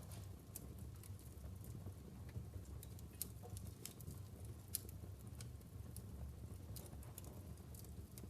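Wood fire in a fireplace crackling, with irregular sharp pops over a low steady rumble of the burning logs; two pops, about three and five seconds in, stand out louder.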